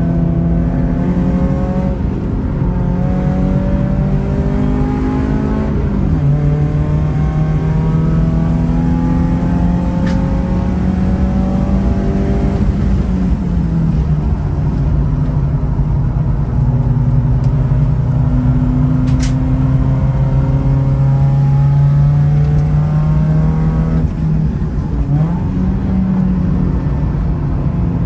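Car engine revving hard on a race circuit, its pitch climbing steadily and then dropping sharply three times, at gear changes or lifts for corners.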